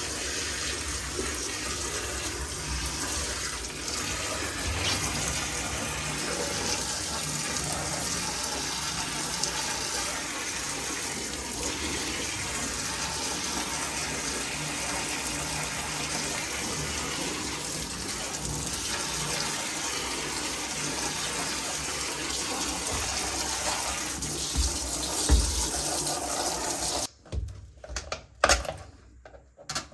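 Water running steadily, as from a tap, that cuts off suddenly near the end, followed by a few sharp clicks.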